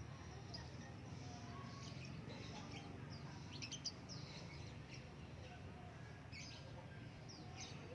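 Small birds chirping faintly in short, scattered calls over a steady low background hum.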